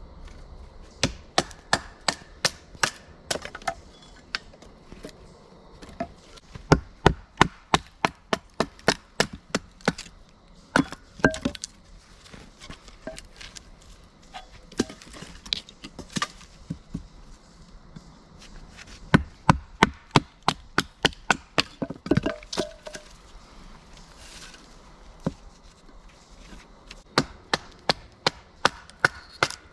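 Firewood being split on a wooden block: sharp chopping strikes into wood, in runs of quick blows about two or three a second with short pauses between runs.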